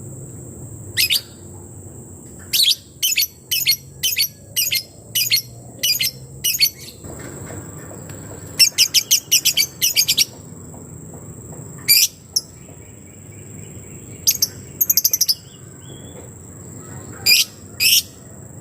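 Lebet bird's 'ngetik' (typing) call, used as a lure to make other lebets answer: sharp, high chip notes repeated about twice a second, broken about halfway by a fast rattling run of notes, with another quick run later and a final pair of chips.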